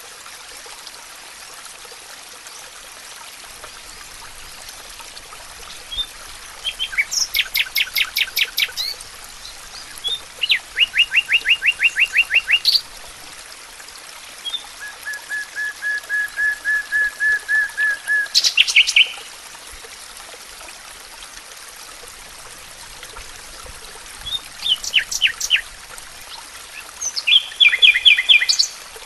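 Songbirds singing in separate phrases of rapid repeated notes and trills, one a long even trill, with pauses of a few seconds between phrases, over a steady background hiss.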